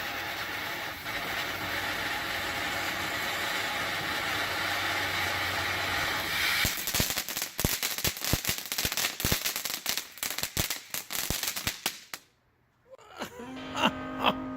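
A TNT Radiant Fountain consumer ground firework sprays sparks with a steady hiss. About halfway through the hiss gives way to dense, irregular crackling pops. The firework sound cuts off near the end and music begins.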